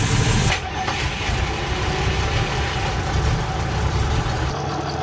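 Rebuilt six-cylinder excavator engine running steadily just after start-up. A high hiss cuts off about half a second in, leaving the steady engine noise.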